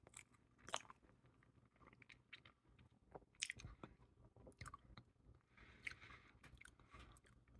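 Faint chewing of a soft whole-grain fig bar: irregular small wet clicks and mouth noises, a few a second at most.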